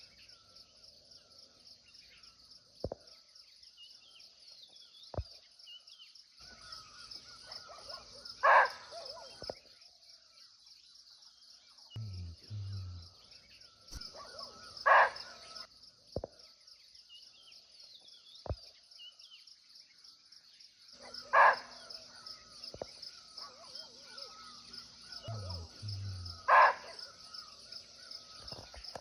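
Barking deer (muntjac) giving single short, sharp barks, four in all, about every five to six seconds, over a steady high insect chorus.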